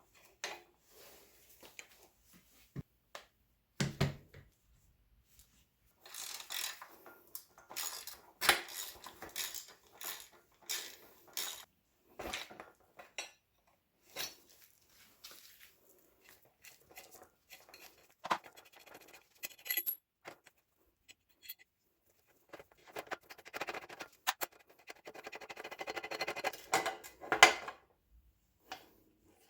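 Metal clinking and clattering of tools and bicycle parts being handled, in irregular bursts of clicks and knocks with short quiet gaps.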